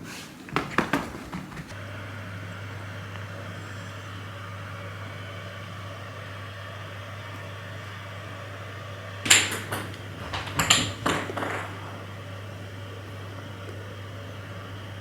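A small electric motor or appliance hums steadily from about two seconds in. A few knocks come at the start, and a cluster of clatters about nine to eleven seconds in.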